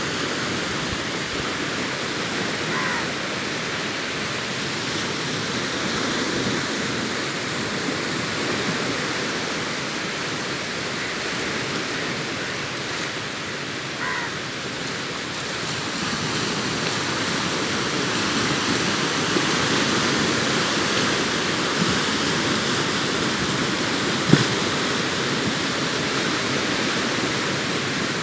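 Sea surf breaking and washing up on the shore, a steady rush that swells a little past the middle. Two brief high calls sound a few seconds in and about halfway, and a short sharp click comes near the end.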